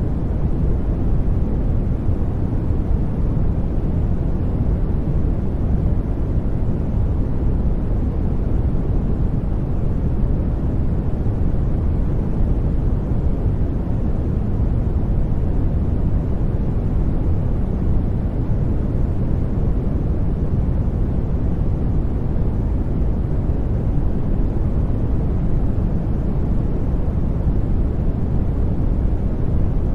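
A steady sleep-noise track: an even, deep hiss that is strongest in the bass, thins out in the treble and never changes.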